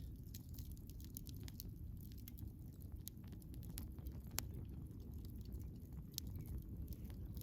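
Wood bonfire crackling: frequent irregular sharp pops and snaps over a steady low rumble, with one louder pop a little past halfway.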